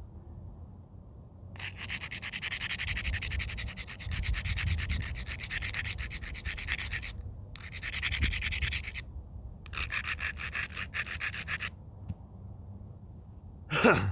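Stone scraped against the edge of a stone spall in three stretches of rapid rubbing strokes, the first the longest: flintknapping edge abrading. One sharp knock near the end.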